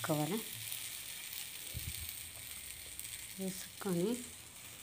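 Flatbread frying on a hot flat griddle (tawa), giving a steady sizzle.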